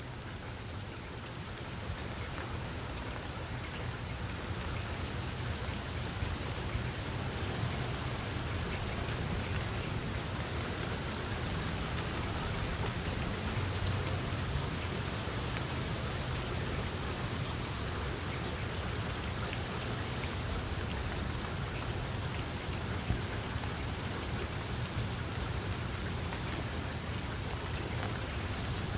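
Steady rain falling, with scattered individual drop hits and a low steady rumble underneath. It grows slightly louder over the first several seconds.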